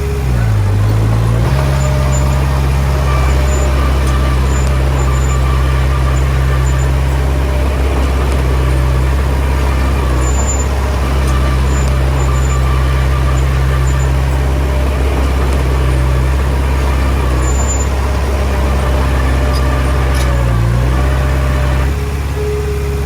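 Diesel engine of a Komatsu D20P bulldozer running steadily while it pushes soil. Its note sags briefly about a second in and again near the end, then recovers.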